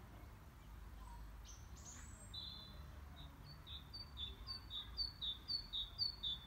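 A small songbird calling a rapid series of short high chirps, about three a second, starting about two seconds in and growing louder toward the end, over a low steady outdoor rumble.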